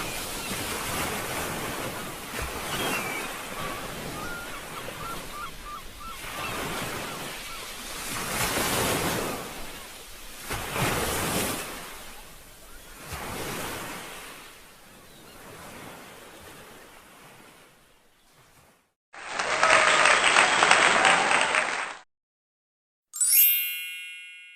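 Sea waves washing ashore in slow surges that fade away after about eighteen seconds. Then comes a loud, noisy sound about three seconds long, the loudest thing here, followed near the end by a single bright ding that rings and dies away.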